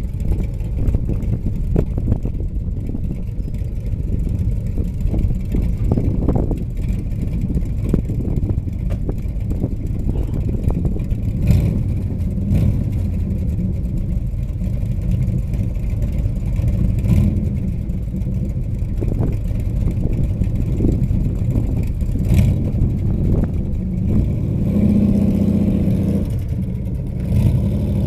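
Chevrolet Corvette Stingray's V8 engine running loudly, the revs swelling a few times over a steady low rumble.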